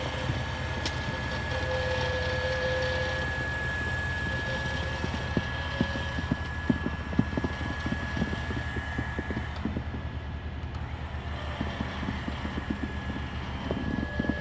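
A vehicle engine running steadily with a low, throbbing rumble while a stuck car is towed out of mud and snow. A thin, steady high-pitched tone sits over the engine, and scattered light clicks and crackles come through from about five seconds in.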